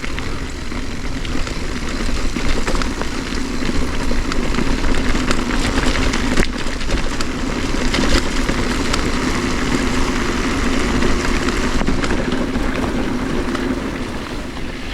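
Riding noise on a trail: wind buffeting the action-camera microphone and tyres rolling over dirt and rocks, with a steady low hum and scattered clicks and rattles.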